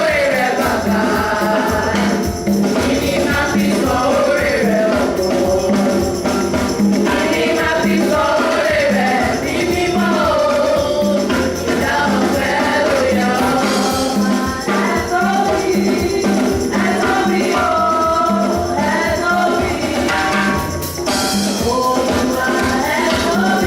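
Church choir singing gospel music, with tambourine over a steady beat.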